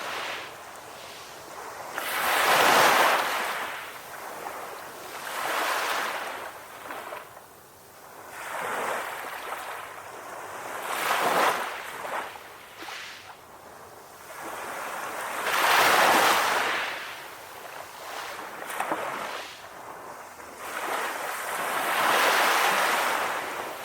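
Sea waves breaking and washing up a beach, each surge swelling and fading away, about six in a row at uneven intervals.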